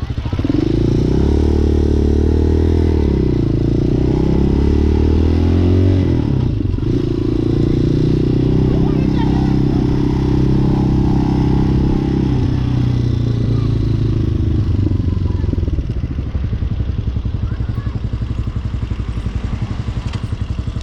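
Hawk 250 motorcycle engine under way: it climbs and falls in pitch several times through the first six seconds as the rider accelerates through the gears, then runs at a steadier pitch. About 16 seconds in it drops to a lower, quieter running as the bike slows.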